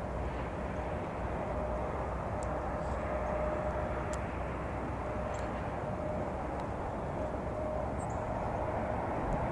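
Steady low rumble of distant traffic, with a faint steady hum and a few small clicks.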